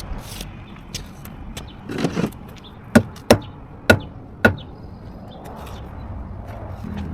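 A series of sharp knocks: four hard strikes close together, with softer clatter just before them, over a faint low hum.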